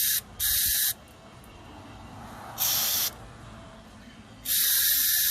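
Aerosol carburetor cleaner sprayed in four short bursts into the small passages of a lawn mower carburetor. The last burst is the longest. The spray is forced through the holes to check that the passages are clear.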